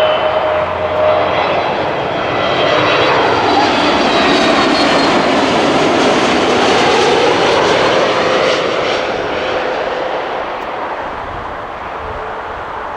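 A jet airliner passing close by on its landing approach. The engine noise swells, peaks in the middle with a whine that bends down in pitch as it goes past, then fades away.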